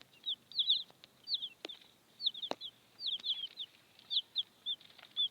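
Young chicks peeping: a steady run of short, high chirps in quick clusters, with a couple of sharp taps.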